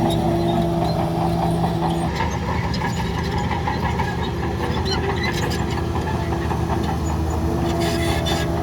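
Heavy diesel earthmoving machine running steadily under load, with scattered metallic clanks and clicks over the engine and a cluster of them near the end.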